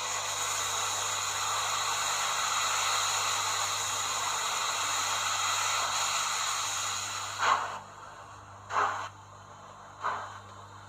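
H0-scale model train running on the track, a steady rushing hiss that fades away about seven and a half seconds in. Then come three short sounds, a little over a second apart.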